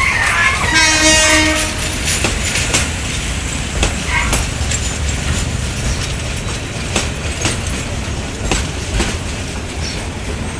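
Train running with its wheels clacking over rail joints, one short horn blast about a second in, the rumble slowly fading.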